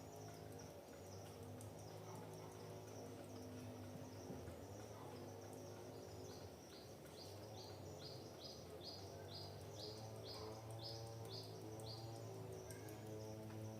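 Faint forest ambience: a run of short, high chirps, about three a second, through the middle, over a low steady hum.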